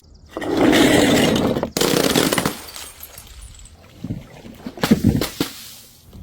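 Glass objects filled with coloured water being smashed: two cut-together crashes of breaking glass with water splashing out. Then a few sharp separate knocks of glass.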